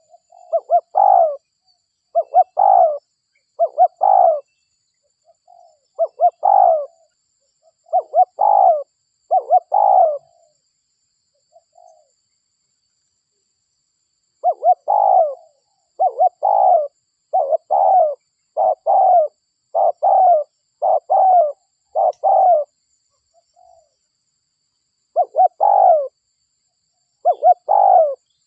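Spotted dove (derkuku) cooing over and over: short coo phrases, mostly in quick pairs and runs, with a pause of about four seconds midway. This is a lure call used to draw wild doves in.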